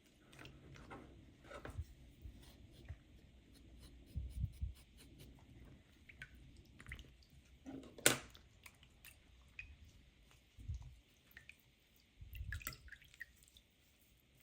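Handling sounds: scattered light clicks and soft low thumps, with one sharper click about eight seconds in, possibly from a wet plush toy being worked in water.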